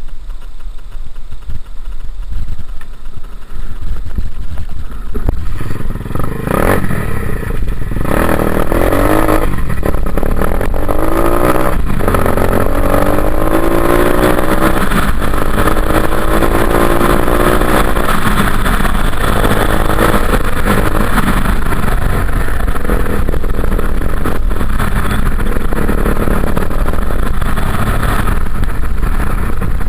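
Dirt bike engine running low for the first few seconds, then revving up about six seconds in and pulling hard, its pitch climbing again and again through the gears before holding at a steady high drone.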